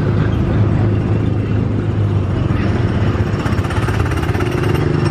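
Small gasoline engine of a Tomorrowland Speedway car running steadily, a constant low hum with a rapid pulse.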